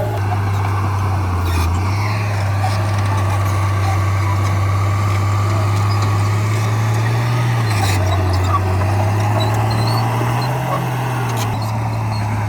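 Crawler bulldozer's diesel engine running steadily, its pitch shifting up and down a few times as the load changes.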